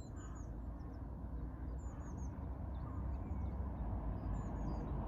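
Small birds chirping, many short high calls repeating throughout, over a steady low background rumble that gets slightly louder near the end.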